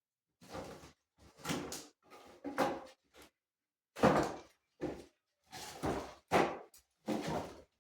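Renovation work in a small room: a string of about a dozen short, separate knocks and scrapes at irregular intervals, with silence between them.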